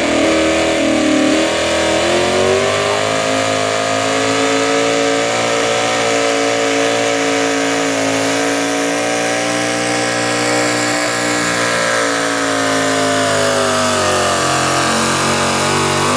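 Super stock two-wheel-drive pulling truck's engine at full throttle pulling the sled. The revs climb in the first couple of seconds, hold high and fairly steady, then drop away near the end.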